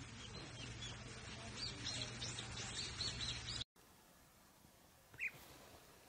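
Small birds chirping over a low steady hum, cutting off suddenly a little before four seconds in; then, in a quieter stretch, a single short call of a European bee-eater about five seconds in.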